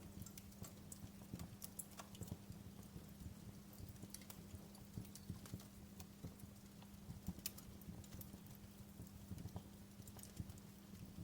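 Wood fire crackling, with irregular snaps and pops a few times a second over a faint steady low hum.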